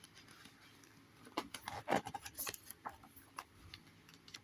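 Paper pages of a magazine being handled and turned: a faint run of papery crackles and rustles for about two seconds in the middle.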